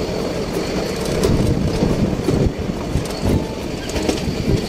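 Nilgiri Mountain Railway toy train running, heard from inside the carriage: a steady low rumble of the wheels on the track, with irregular knocks and rattles.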